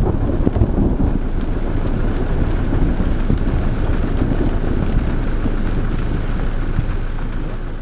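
Thunderstorm: a continuous low rumble of thunder with rain and wind, easing slightly near the end.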